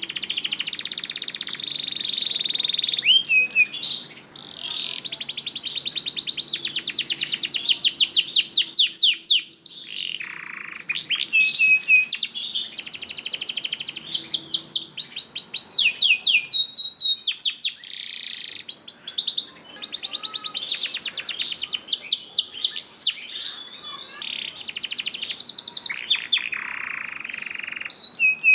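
Domestic canary singing a long, continuous song: fast trills of repeated high notes alternating with held whistled notes, broken by a few brief pauses between phrases.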